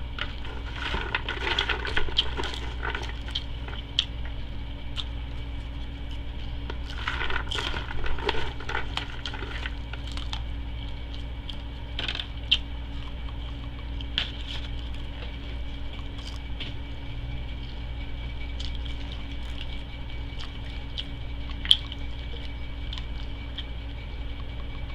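Close-up eating sounds of a person chewing a fish sandwich: wet chewing with scattered mouth clicks and smacks, over a steady low hum.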